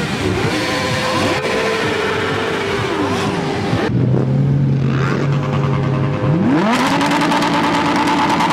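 Sport motorcycle engines revving, their pitch sliding up and down. Just before the last couple of seconds a low, steady-running engine revs up quickly and holds a high steady note.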